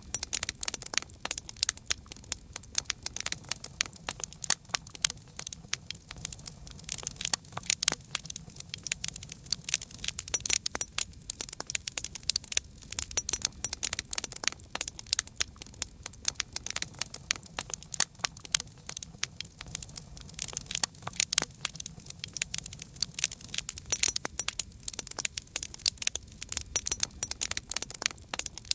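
Campfire crackling: many irregular sharp pops and snaps, several a second, over a faint low background.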